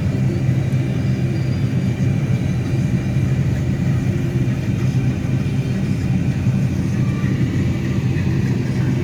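Steady low drone inside a Subaru's cabin while it drives along: engine and road noise at an even level.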